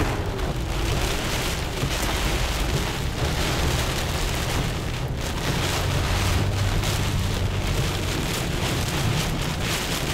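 Torrential tropical-storm rain beating on a moving car's windshield and roof, heard from inside the cabin, with a steady low rumble underneath.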